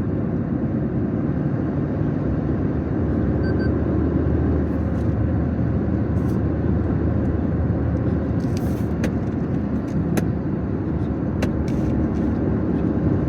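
A car driving, a steady low engine and road rumble, with a few short clicks between about 8 and 12 seconds in.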